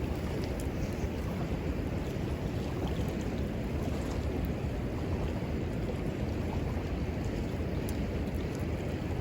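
Steady rushing of a river, with low wind rumble on the microphone and a few faint, sharp crackles from a wood fire.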